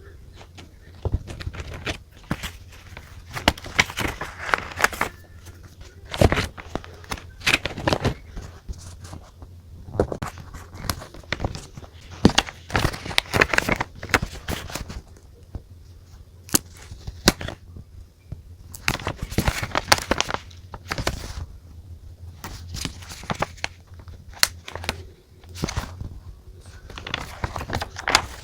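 Close-up sounds of paper and stationery being handled: crinkling and rustling with many sharp clicks and taps.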